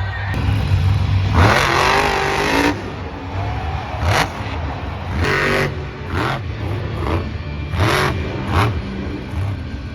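Monster truck engine revving hard in bursts over a steady low rumble: one long rev about a second in, then several short, sharp revs.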